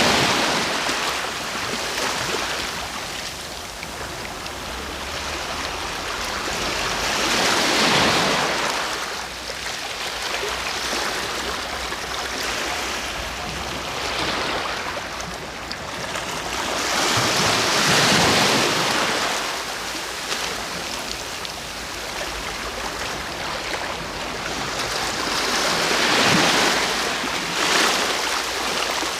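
Sea waves breaking onto the shore: the wash of surf swells as each wave breaks, four times, roughly every eight to ten seconds, and hisses between breaks.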